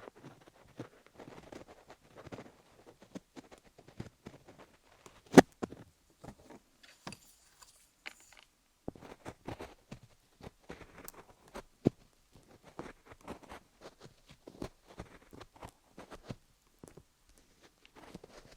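Coloured pencil scribbling and tapping on wooden picks close to a dummy-head microphone: a run of irregular short scratches and clicks, with one sharper click about five seconds in.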